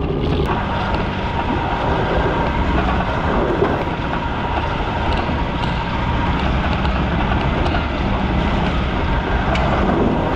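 Mini truck on rubber Mattracks track conversions driving, with its small engine running under a steady rumble and clatter from the tracks.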